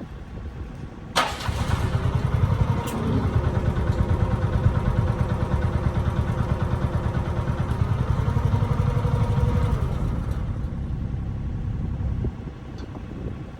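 Mini excavator's diesel engine jumping abruptly to high revs about a second in and running hard for around nine seconds, then dropping back to a lower, quieter speed near the end.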